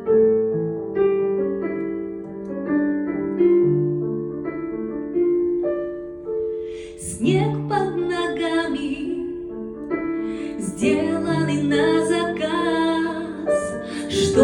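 Slow ballad introduction played on piano, a few sustained chords and notes at a time. About halfway through, a higher wavering melody line with vibrato joins over the piano.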